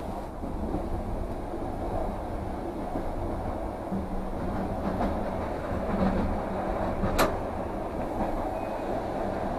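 Passenger train running, heard from inside the carriage: a steady rumble of wheels on track with a low hum, and one sharp click about seven seconds in.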